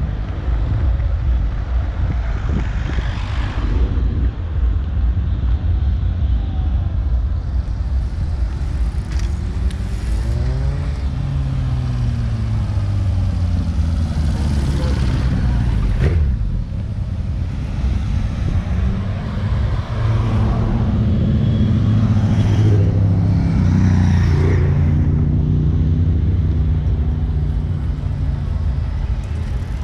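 Motorcycle engines running in slow traffic, their notes rising as they pull away around ten seconds in and again from about twenty seconds, over a heavy low rumble; a sharp click about sixteen seconds in.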